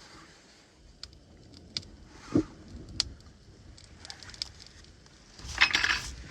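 Small hard objects clinking and jangling for about a second near the end, after scattered sharp clicks and a dull knock.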